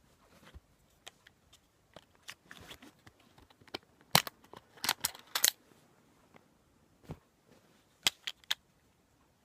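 Tokyo Marui Colt Government Series '70 gas blowback pistol being field-stripped: sharp clicks and light scraping of its parts as they are worked and separated. The loudest clicks come in a cluster around four to five and a half seconds in, and three quick clicks come near the end.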